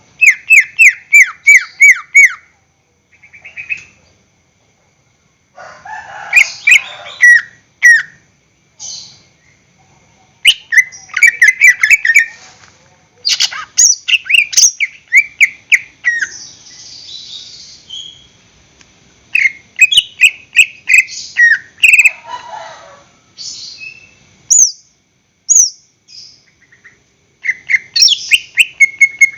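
Cucak ijo (green leafbird) singing in loud bursts of quick, repeated, down-slurred whistled notes. The phrases vary and are separated by short pauses.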